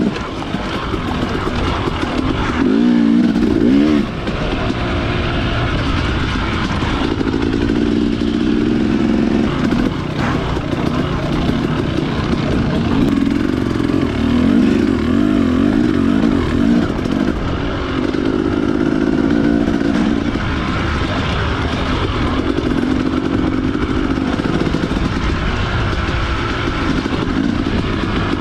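Dirt bike engine running under way, its pitch rising and falling again and again as the throttle is worked, over a low rumble.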